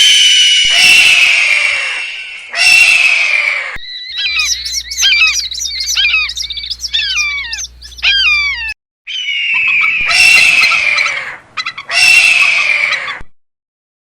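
Bird calls: loud, harsh calls of about a second each, with a stretch of rapid, falling whistled chirps in the middle.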